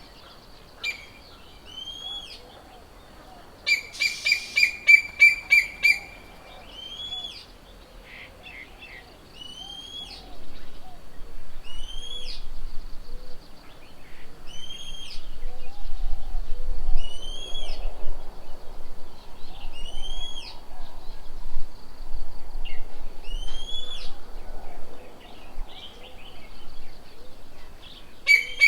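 Wild birds calling: one bird repeats a short rising-and-falling whistle about every two seconds, while a rapid run of sharp, evenly spaced notes comes in about four seconds in. A faint steady high-pitched whine sits underneath.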